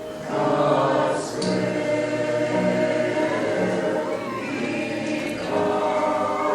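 Church choir singing a number from a Passion cantata.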